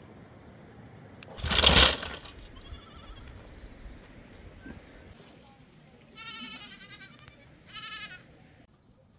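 Livestock bleating: three wavering bleats, a faint one about three seconds in and two clearer ones near the end. About one and a half seconds in, a brief loud rushing noise is the loudest sound.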